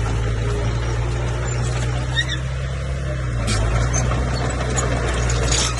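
Komatsu bulldozer's diesel engine running with a steady low drone, its pitch shifting about three and a half seconds in as the load changes. A few short high chirps sound about two seconds in.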